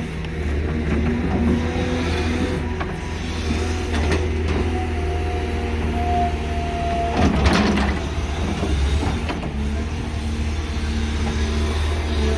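Heavy diesel engine of a hydraulic excavator running steadily under load. A held hydraulic whine sounds for a few seconds in the middle, and there is a single metallic clunk about seven seconds in.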